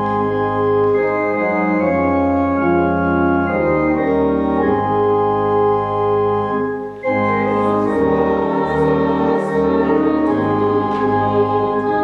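Organ playing held chords as a postlude after the service's dismissal, with a brief break about seven seconds in before the chords resume.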